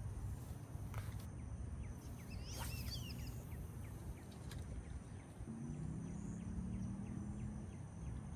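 Outdoor ambience of a steady low rumble, with a bird chirping briefly about three seconds in and a faint low hum starting later on.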